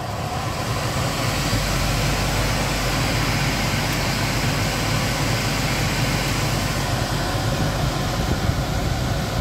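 Electric blower fan running steadily, forcing air into the firebox of a homemade diesel-burning heater, with a low hum under the rush of air; it builds over about the first second and a half, then holds.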